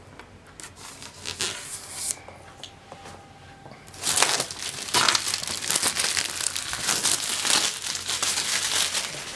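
Packaging crinkling and rustling as it is handled and unwrapped. There are a few short rustles at first, then dense, continuous crinkling from about four seconds in.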